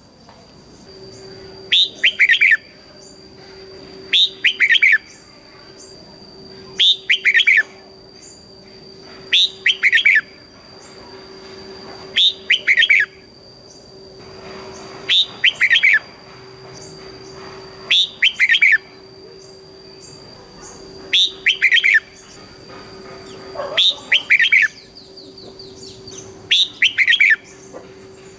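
Red-whiskered bulbul singing: short, loud phrases of quick falling whistled notes, about every two and a half to three seconds, eleven in all, over a faint steady hum.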